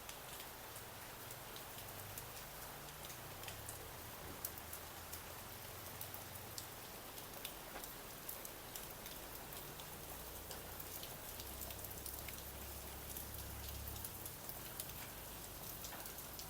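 Steady rain falling, with many scattered sharp ticks of drops striking nearby surfaces.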